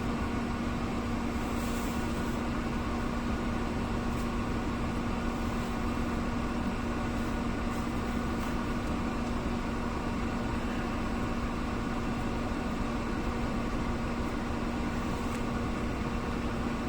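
An engine idling steadily: a constant drone with one unwavering hum and no change in speed.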